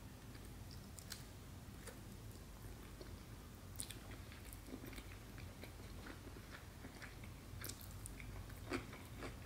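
Faint, close chewing of a mouthful of salmon sushi roll, with small wet mouth clicks now and then and a few more near the end.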